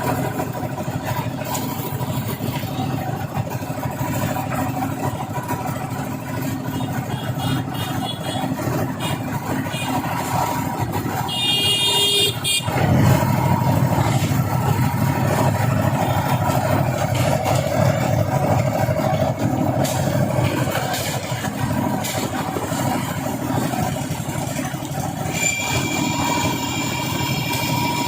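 Vehicle engines running steadily as traffic, getting louder about halfway through. A horn sounds briefly about twelve seconds in and again through the last few seconds.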